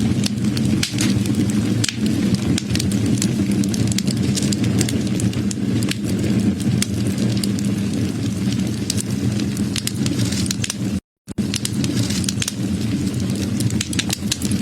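Wood fire burning: a steady low rumble of flames with frequent sharp crackles and pops of burning wood. The sound drops out to silence for a moment about eleven seconds in.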